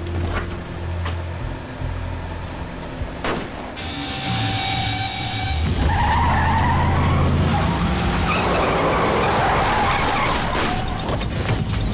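A car engine running over background music, getting louder about six seconds in.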